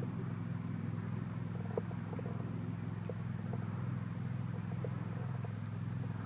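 Steady low mechanical hum with a few faint, short clicks over it.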